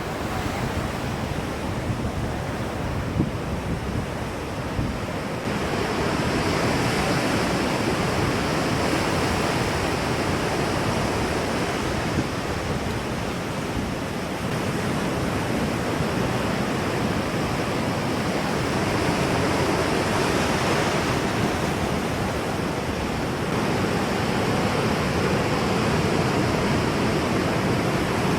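Steady rushing water, growing a little louder about five seconds in.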